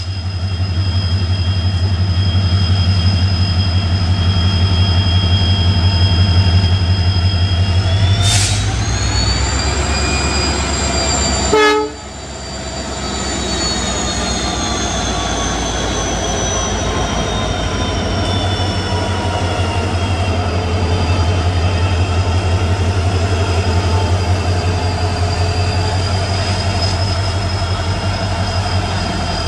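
WDP4B diesel locomotive's EMD two-stroke diesel engine running with a loud deep hum and a high whine from several tones. About eight seconds in the whine rises as the engine throttles up to pull away. It then slowly falls in pitch.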